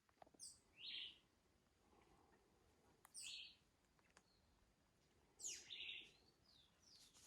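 A bird calling faintly three times, a couple of seconds apart. Each call is a quick falling whistle that runs into a lower note.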